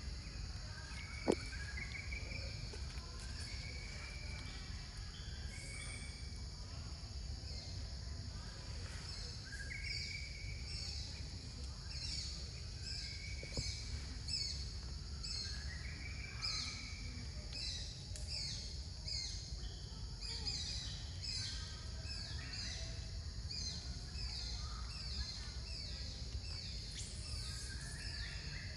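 Tropical forest ambience: a steady high insect drone with scattered bird chirps. About a third of the way in, a long run of quick, falling high-pitched calls joins in. A single sharp click comes about a second in.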